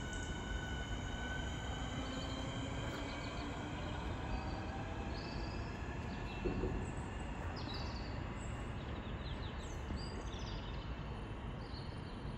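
Class 465 Networker electric train standing at the platform, its equipment running with a steady hum and high tones that fade out in the first couple of seconds. Short bird chirps come through over it.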